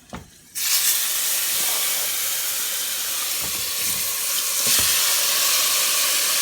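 Seasoned chicken pieces going into hot oil with burnt curry, garlic and ginger, setting off a sudden loud sizzle about half a second in that keeps up steadily and grows a little brighter near the end.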